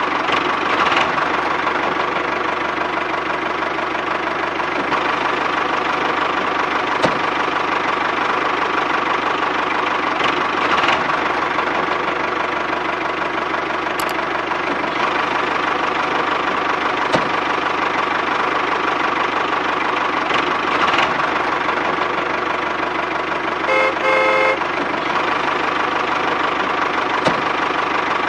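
Small electric motor running steadily with a constant whine. About 24 s in there is a short beeping tone.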